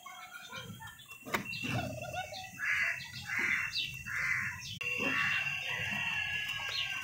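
Birds calling: scattered short high chirps, and three loud hoarse calls in a row about three seconds in.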